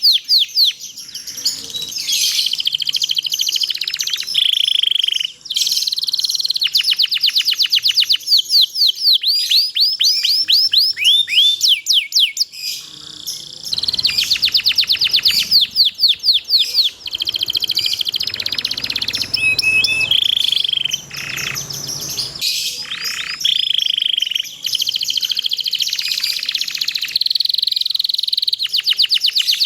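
Domestic canary singing a long unbroken song: rapid trills of quickly repeated notes, swept rolls and short held whistles, with only brief breaks.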